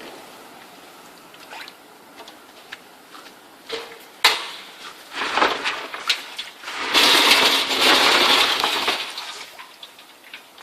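Compressed-air wet/dry industrial vacuum sucking up loose debris: sharp clinks and rattles as pieces hit the nozzle, then a loud rush of suction noise lasting about two seconds near the middle.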